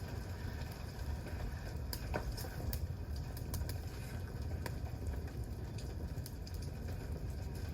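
Wood campfire burning, with scattered sharp crackles and pops over a low steady rumble.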